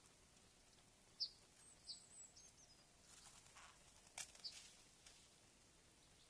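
Faint short high bird chirps, a few about one to three seconds in and another just after four seconds, with soft rustles and a click between them.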